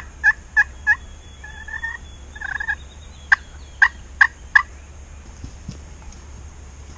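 Turkey yelping: a quick run of short, sharp yelps about three a second, two longer drawn notes around two seconds in, then four more sharp yelps a little after three seconds.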